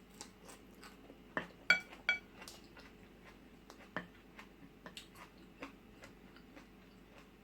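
Metal spoon clinking against a bowl: two short ringing clinks about two seconds in, among scattered soft clicks and taps of eating.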